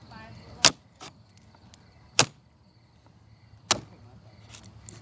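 Axe chopping wood: three sharp strokes about a second and a half apart, with lighter knocks between them.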